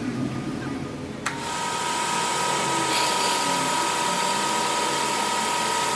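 A workshop machine's electric motor switches on about a second in and then runs steadily with a high whine and a hiss.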